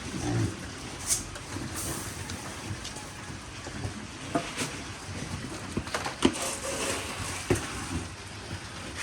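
Piglets feeding: irregular crunching, clicks and knocks over a steady noisy background, with a short low sound near the start.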